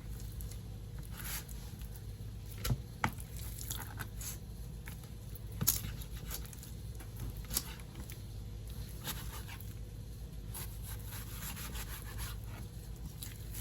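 Knife cutting raw chicken breast on a cutting board: irregular taps of the blade on the board and soft scrapes, over a steady low hum.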